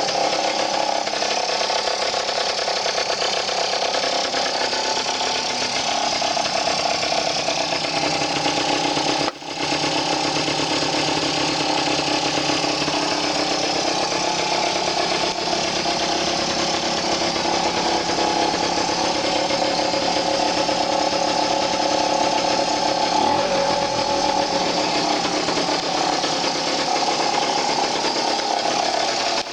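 Two-stroke engine of a Malaguti F10 scooter, bored out to 70 cc, running steadily with a rattle, its pitch drifting slowly; the sound cuts out for a moment about nine seconds in.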